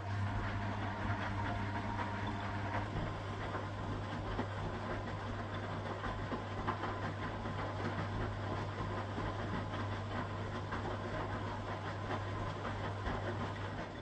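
1969 Zanker VA520 washing machine running, with a steady hum under a dense rushing noise and scattered clicks. The sound starts and stops abruptly.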